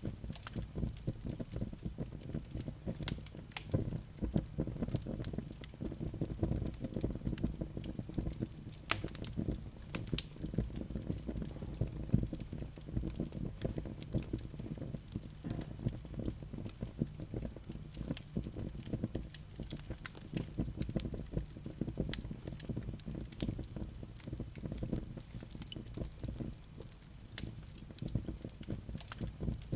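Wood fire burning in a fireplace: a steady low rush of flames with frequent irregular crackles and pops from the burning logs.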